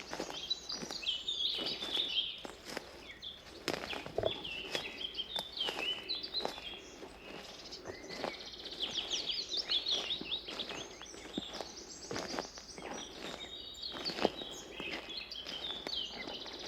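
Several songbirds chirping and singing in quick, overlapping phrases, over a walker's steady footsteps on a forest path.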